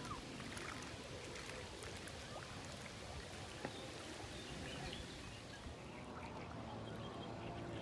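Lake water running and lapping at the shore in a steady wash, with a few faint bird chirps over it.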